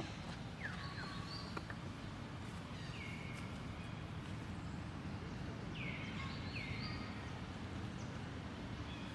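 Short high-pitched animal calls, each sliding quickly down in pitch, mostly in pairs, a handful of times over a steady low background rumble.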